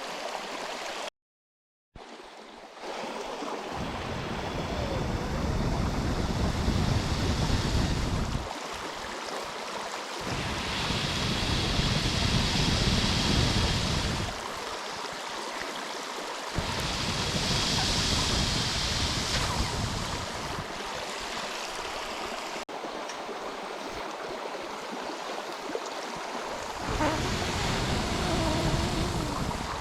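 Steady rushing noise of flowing water, with several gusts of wind rumbling on the microphone, each a few seconds long. The sound cuts out briefly about a second in.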